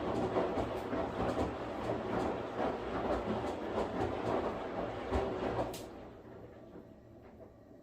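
Washing machine running, a dense noise with irregular knocking and clatter, which stops abruptly about six seconds in and leaves only a faint low hum.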